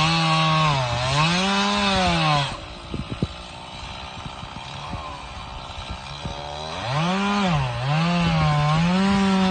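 Chainsaw cutting wood, its engine speed dipping and rising under load. It drops to a quieter idle about two and a half seconds in, then revs up and cuts again about seven seconds in.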